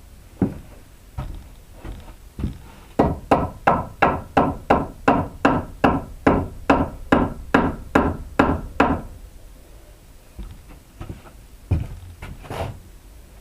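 Hammer blows driving a piece into place: a few light taps, then a steady run of about eighteen strikes at roughly three a second, and two more strikes near the end.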